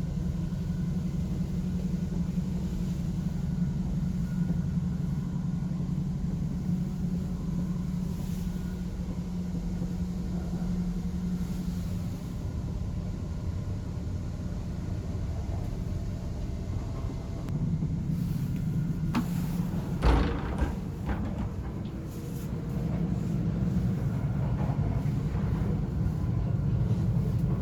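Steady low rumble of a Shinkansen bullet train in motion, heard from inside the carriage, with one sharp knock about twenty seconds in.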